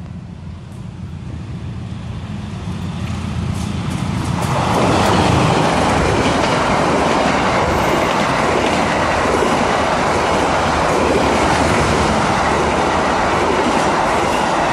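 KAI passenger train passing close by on the rails. A low rumble builds over the first four seconds, then the loud rolling noise of its wheels on the track takes over about four and a half seconds in.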